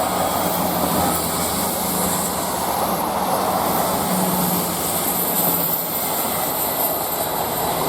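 Class 159 diesel multiple unit passing, its underfloor diesel engines giving a steady drone with a low hum.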